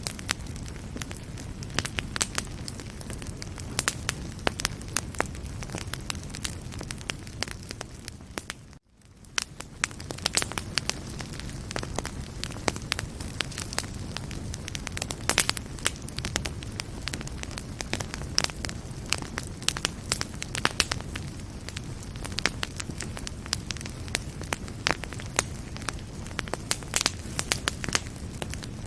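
Wood fire burning in a fireplace: a steady low rumble of flames with frequent sharp crackles and pops. About eight seconds in the sound fades away to near silence, then fades back up over the next second or so.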